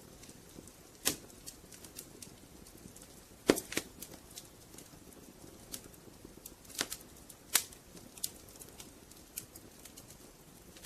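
Burning firewood crackling: irregular sharp snaps and pops over a soft low hiss. The loudest pops come about a second in, around three and a half seconds in, and twice near seven seconds in.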